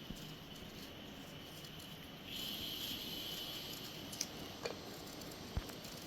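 Faint outdoor ambience with a steady high-pitched insect drone that gets louder about two seconds in, and three light clicks near the end.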